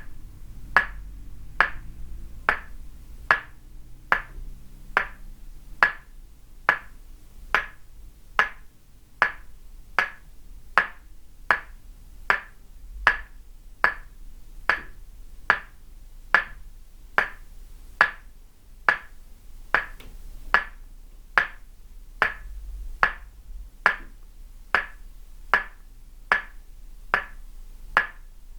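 Tok sen massage: a wooden mallet tapping a wooden peg held against the body, giving short, hollow wooden knocks in a steady, even rhythm of about five strikes every four seconds.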